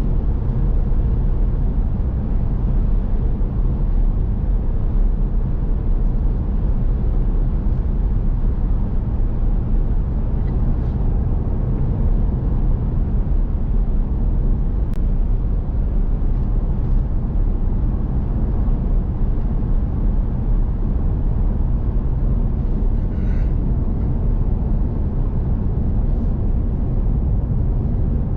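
Steady engine and road noise inside a moving vehicle's cab at highway speed, a constant low rumble with a few faint brief ticks.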